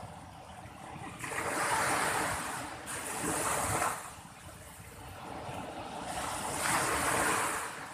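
Big ocean waves breaking and washing up a beach, swelling to a loud rushing hiss about a second in and again near the end.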